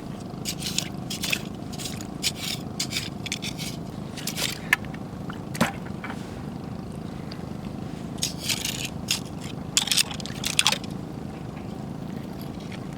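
Irregular scraping and crunching of rocks and shells being shifted and stepped on, in loose clusters of short strokes.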